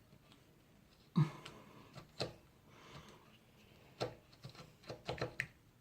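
Scattered clicks and knocks of tools and drain parts being handled while a clogged sink drain is worked on, the loudest about a second in and a quick cluster near the end.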